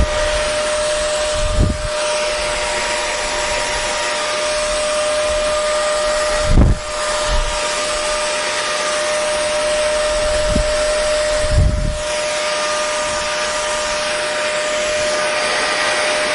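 Hair dryer running steadily: an even rush of air over a constant motor whine. Four brief low thumps break in, the one about six and a half seconds in the loudest.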